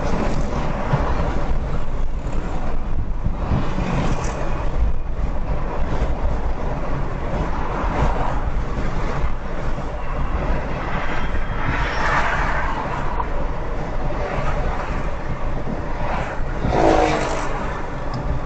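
Steady road and engine noise of a car driving on a highway, recorded by a dashcam, with no impact. A short pitched sound comes near the end.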